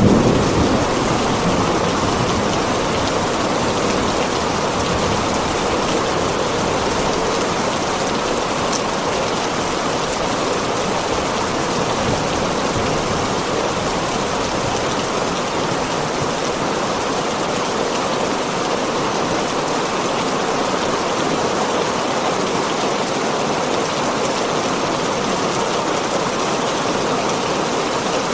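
Steady heavy rain drumming on a tin roof. A low rumble of thunder dies away in the first second.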